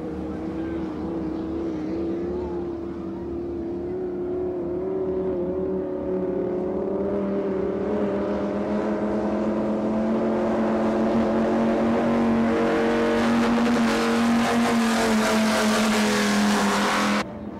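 Offshore racing powerboat engines running, their pitch creeping up and the sound growing steadily louder with rising rush and hiss as the boat comes closer. The sound cuts off abruptly near the end.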